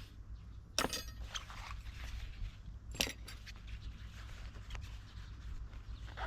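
Two sharp clinks or knocks, about a second in and again two seconds later, with a few fainter ticks, over a steady low rumble.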